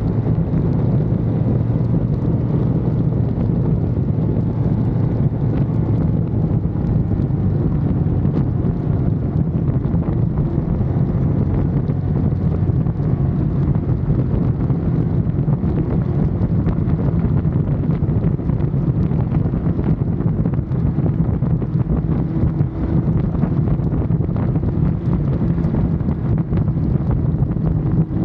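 Ducati Monster's L-twin engine running steadily on the move, half buried under heavy wind rushing over the camera microphone.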